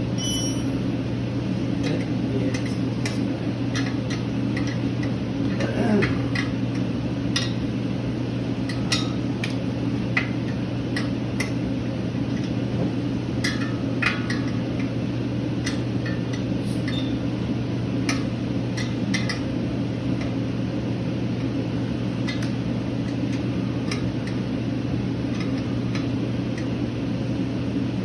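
Metal hand tools clinking and tapping against metal while working on a motorcycle engine: scattered light clicks at irregular intervals over a steady low hum.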